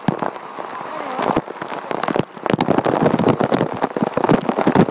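Water splashing and spattering close by, with waterfall noise behind; the splashing grows louder and denser about halfway through.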